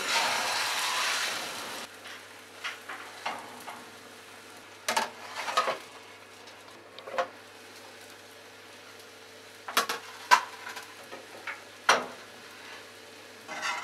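Vegetable omelette slid from a metal lid into a hot oiled frying pan, its uncooked side sizzling loudly for about two seconds before cutting off. Then several sharp metal clinks and knocks as the metal lid is set back over the pan.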